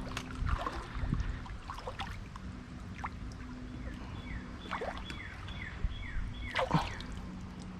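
Water splashing in a shallow creek as a hooked smallmouth bass is grabbed by hand, with several sharp splashes, the loudest near the end. A bird calls a run of short falling notes in the middle.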